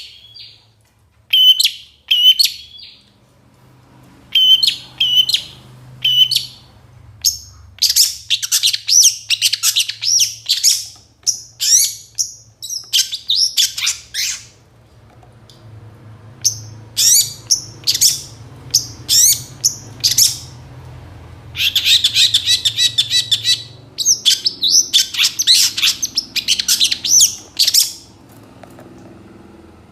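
Long-tailed shrike singing a varied song packed with mimicked phrases of other birds: quick bursts of sharp high chirps and whistles broken by short pauses. A dense run of harsh, scratchy notes comes a little past the middle.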